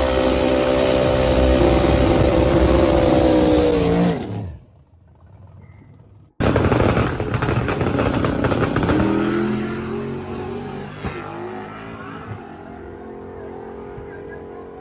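A loud vehicle engine running, its pitch dropping and the sound falling away about four seconds in. After an abrupt cut, another engine revs up and down and then fades away.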